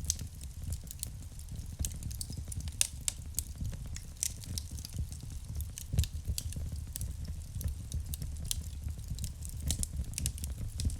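Wood fire crackling in a fireplace: frequent irregular sharp pops and snaps over a steady low rumble of the flames, with one louder pop about six seconds in.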